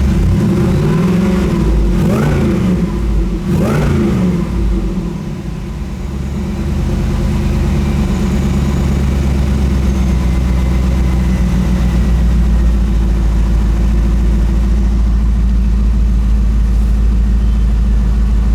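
Supercharged 5.7-litre LS1 V8 with a Magnuson MP112 supercharger running. It is revved up and back down a few times in the first five seconds, then settles to a steady idle.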